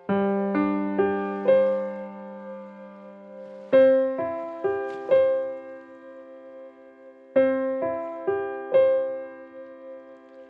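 Slow, gentle solo piano music: unhurried phrases of four notes each, every note left to ring and fade before the next phrase.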